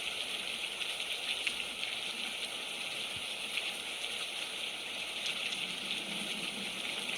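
Steady heavy rain falling and splattering on the ground and surfaces, an even hiss with small drop ticks.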